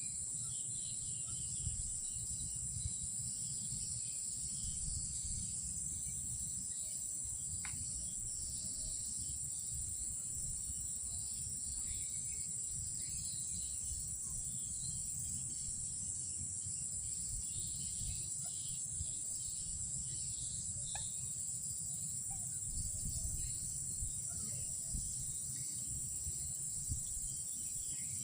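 Night insects, crickets, trilling in one continuous high-pitched drone over a steady low rumble, with a few faint scattered chirps.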